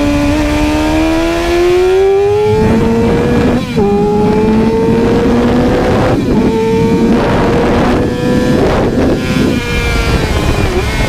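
Inline-four 600-class sport bike engine running at high revs, its pitch climbing steadily, dropping sharply at a gear change about four seconds in, then climbing again and easing near the end, over a heavy rush of wind noise.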